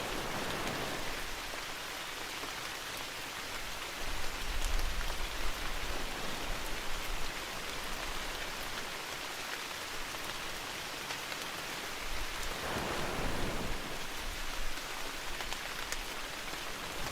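Steady rain falling in a recorded rain-forest ambience, with a deep low rumble about four seconds in and a swell of noise near the end.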